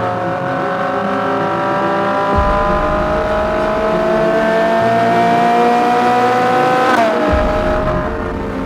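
Ferrari 458 Spider's 4.5-litre V8 accelerating in one gear, its pitch climbing steadily for about seven seconds before dropping sharply at a gear change near the end. Background music plays underneath.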